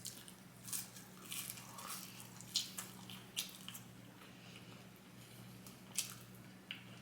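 Close-miked chewing of McDonald's food, French fries and Big Mac: scattered wet mouth smacks and squishy bites, with a few sharper clicks in the middle and near the end. A steady low hum runs underneath.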